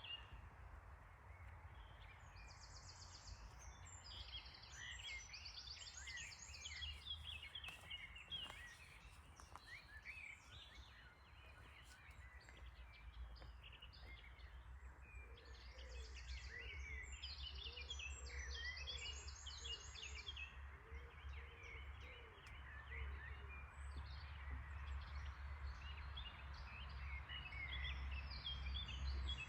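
Several small birds chirping and singing, with rapid high trills in two bouts early on and around the middle and lower calls mixed in, over a steady low rumble.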